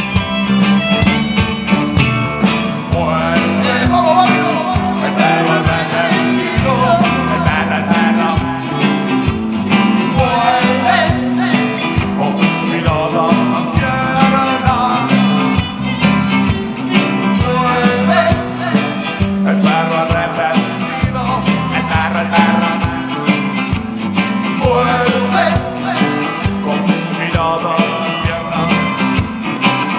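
A rock band playing: drums and bass keep a steady beat under a wavering lead melody line.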